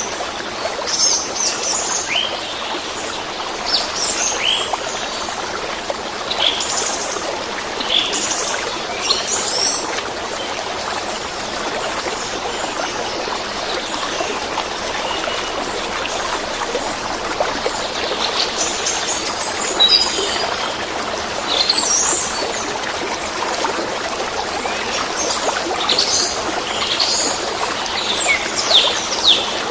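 Running water flowing steadily, with small birds chirping over it in bursts of short, high chirps and whistles. The chirping is busiest in the first ten seconds, again around two-thirds of the way in, and near the end, and thins out in between.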